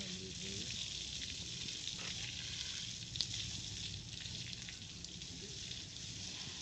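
Hose spray nozzle washing water onto cows' udders and teats before milking: a steady hiss, with one sharp click about three seconds in.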